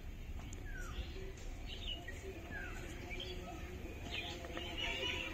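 Birds chirping: short separate calls about once a second, some of them quick falling notes, over a low background rumble.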